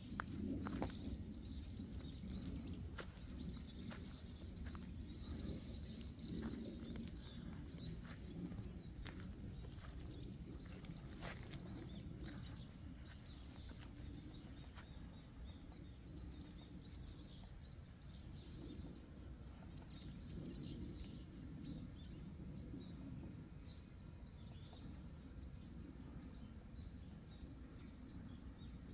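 Small birds chirping on and off over a steady low outdoor rumble, with a few sharp clicks in the first half.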